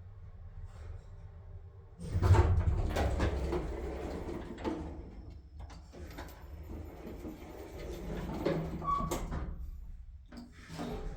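Old Mitsubishi Elepet elevator operating. After a quieter start, a run of scraping creaks and knocks over a low rumble begins about two seconds in and lasts some eight seconds, with another short burst near the end.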